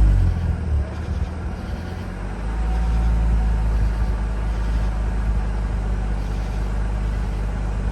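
Mazda RX-8's two-rotor Renesis rotary engine running on a held throttle just after being deflooded. The revs come down about a second in, then it runs steadily.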